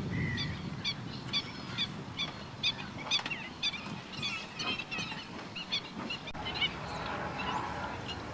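A flock of waterbirds calling: a run of short calls repeated about two or three times a second, with other birds' calls mixed in. The calls thin out in the last couple of seconds.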